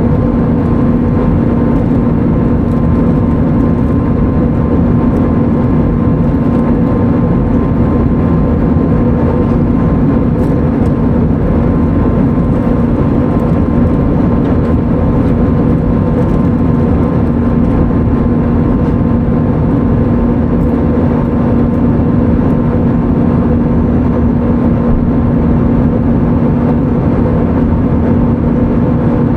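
Steady cabin drone of an Airbus A320neo in flight: engine hum and airflow rumble, with a constant low tone and fainter higher tones that do not change.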